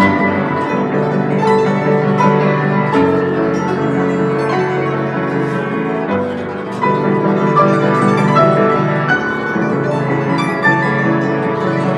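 Guzheng and piano playing together in a slow instrumental duet, with held piano chords under plucked zither notes. The music eases briefly just past the middle, then swells again.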